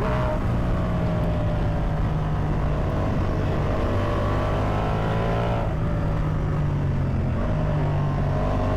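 Ducati Multistrada V4 Pikes Peak's V4 engine running under way, its note easing and then climbing again near the end as the throttle changes, over steady wind and road rush.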